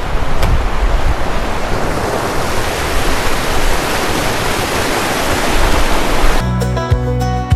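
River water rushing steadily, a dense even wash of sound, until about six seconds in, when it cuts off abruptly and acoustic-guitar background music begins.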